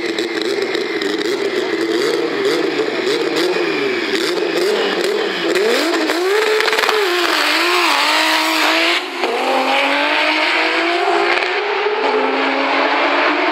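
Turbocharged VR6 engine of a 1000 PS Audi S3 R30 drag car. It is held at high revs on the start line, then the revs bob up and down for a few seconds. After a brief break about 9 s in, the revs climb steadily as the car accelerates away down the strip.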